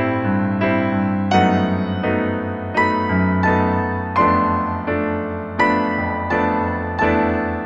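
Slow, gentle piano music: single notes and chords struck about every half second, each one ringing out and fading.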